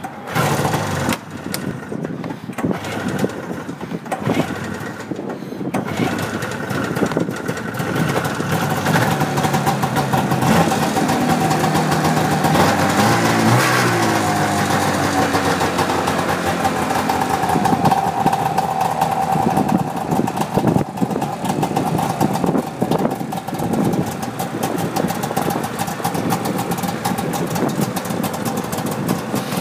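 1993 Arctic Cat Jag 440 snowmobile's two-stroke twin engine starting with a few uneven bursts in the first several seconds, then running steadily. It is revved once around the middle and settles into a steady idle.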